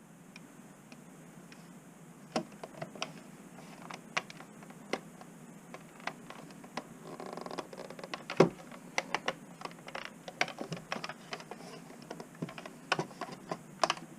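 Irregular light clicks, taps and knocks of hard objects being handled, starting about two seconds in, with a short scraping rush near the middle and one louder knock just after it.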